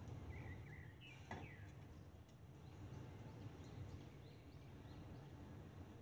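Near silence: a low steady hum with a few faint, short bird chirps, the clearest in the first second and a half.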